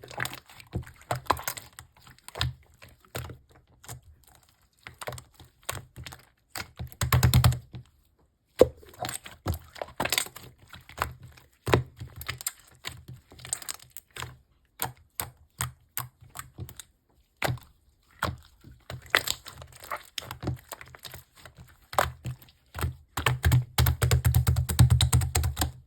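Hands pressing and poking a slime, making a long run of quick sticky clicks and pops, with denser, louder squishing bursts about seven seconds in and near the end.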